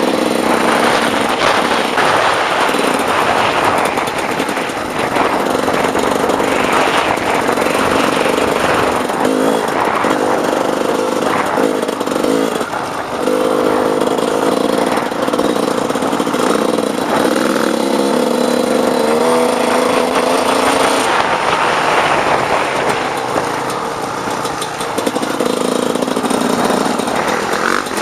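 Off-road dirt bike engine running continuously while riding, its pitch rising and falling with the throttle.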